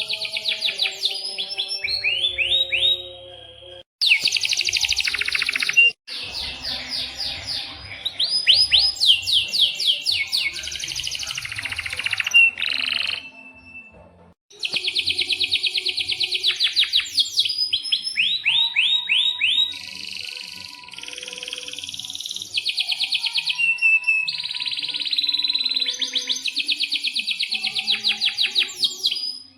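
Domestic canary singing long, loud runs of rapid trilled notes and rolls, with sharp sweeping chirps between them. The song breaks off abruptly a few times and starts again.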